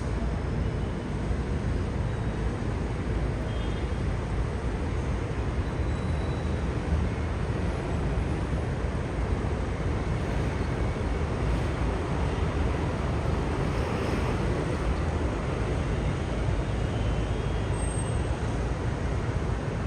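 Steady road traffic noise, an even hum of many vehicles with a constant low rumble.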